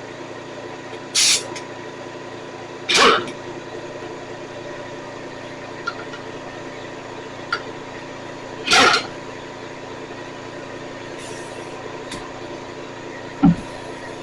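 Four short, loud bursts of a compressed-air tool, the last one sharper, over a steady mechanical hum in the shop.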